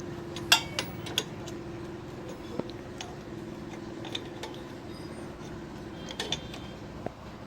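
Scattered light metal clinks and taps of a spanner and loose parts while the 19 mm nut is undone on a Royal Enfield Bullet's rear wheel and brake assembly. A steady low hum sits underneath and fades out about six seconds in.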